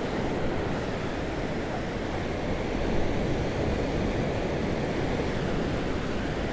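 Rough ocean surf washing and breaking steadily, with wind rumbling on the microphone.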